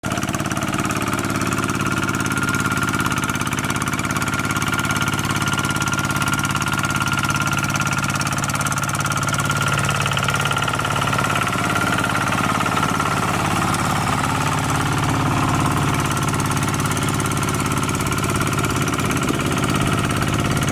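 Small Kubota tractor's diesel engine running steadily with a knocking clatter.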